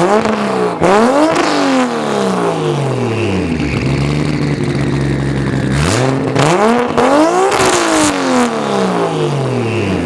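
Toyota Supra MK4's turbocharged 2JZ-GTE straight-six revved twice from idle, each time climbing quickly and then falling back to a steady idle, with short sharp noises near the tops of the revs.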